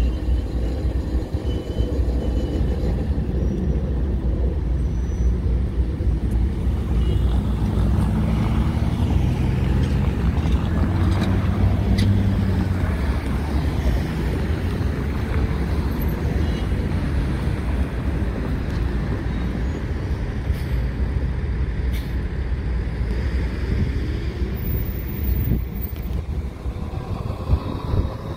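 A train going by with a steady low rumble, an engine note swelling about a third of the way through, and a few sharp clicks.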